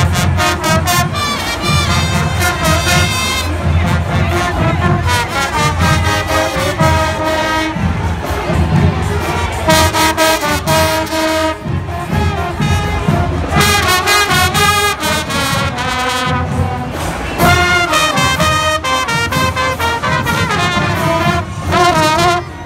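Marching band brass and saxophones, trumpets and mellophones among them, playing a loud, rhythmic tune.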